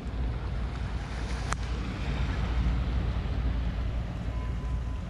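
Wind buffeting the microphone, a steady low rumble, with one sharp click about a second and a half in.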